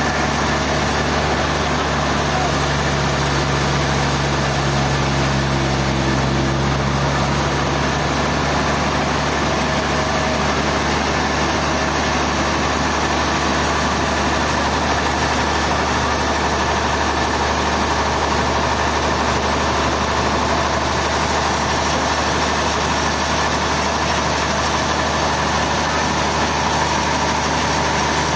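Sawmill machinery's engine running steadily at a constant speed, with no change in pitch or level.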